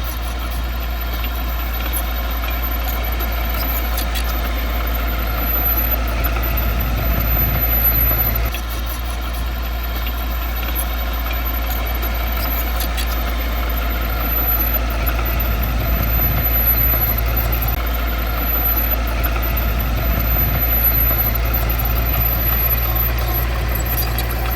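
Diesel engine of heavy earthmoving equipment running steadily with a deep drone, easing off slightly about eight seconds in.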